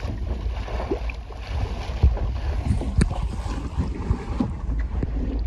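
Wind buffeting the microphone and water washing past a sailing dinghy's hull as it sails along, with a sharp knock about three seconds in.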